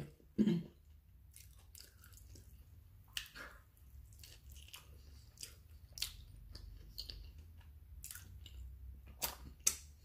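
A person chewing a mouthful of taco close to the microphone: quiet, irregular wet smacks and clicks, with a few louder ones near the end.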